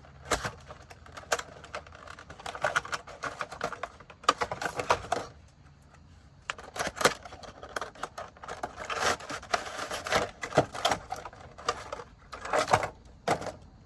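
Hands unpacking model train boxes and their plastic packaging: a run of clicks, taps and crinkling, in two busy stretches with a lull around six seconds in.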